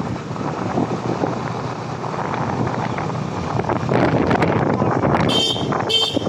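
Wind rushing over the microphone with road and traffic noise during a scooter ride, and two short horn honks near the end.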